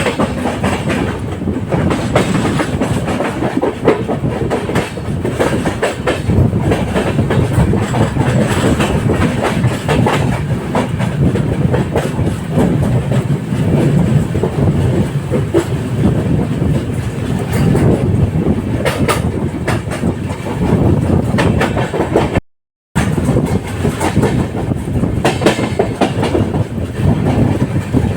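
LHB passenger coaches of an express train running along the track: a steady rumble with the wheels clattering over rail joints. The sound drops out completely for about half a second roughly two-thirds of the way through.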